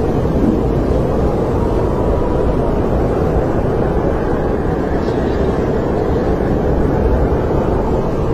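Snowstorm wind blowing in a steady, low rush, with a faint whistle rising out of it now and then.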